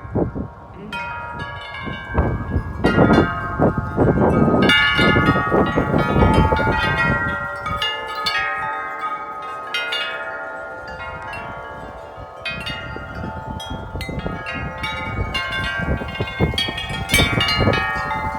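Several large tuned wind chimes clanging and ringing together in strong gusts, with a low wind rumble over them. About halfway through the gust eases, the rumble drops away and the chimes ring on more sparsely, then strike more often again near the end.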